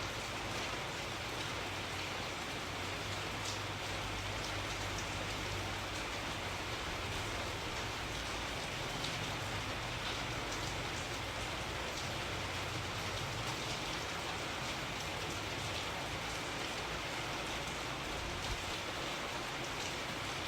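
Steady rain falling: an even hiss with scattered individual drop taps and a faint low rumble underneath.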